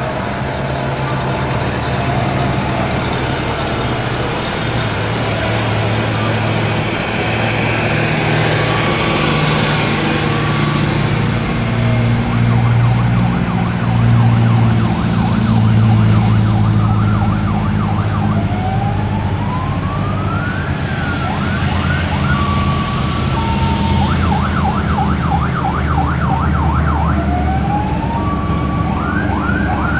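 Vehicle engines running, with an electronic siren sounding over them. About two-thirds of the way in it gives a rising wail, then switches to rapid yelping sweeps that come back near the end. Short steady tones sound here and there.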